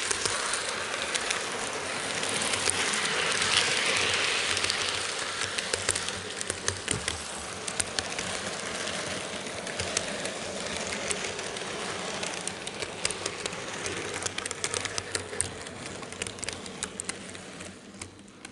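N gauge model freight train running on the track, heard from a camera car riding with it: a steady rolling rattle of small wheels on rails, with many sharp clicks, getting quieter near the end.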